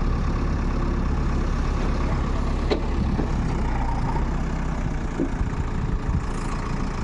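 Diesel engine of heavy machinery, such as a backhoe loader or tractor, running steadily at idle. A brief sharp click comes about two and a half seconds in.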